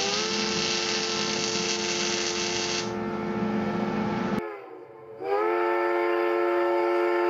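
A train whistle sounding a chord of several notes in two blasts. The pitch slides up as each blast starts, and it sags and fades about four and a half seconds in before sounding again. A loud hiss runs under the first blast and cuts off suddenly.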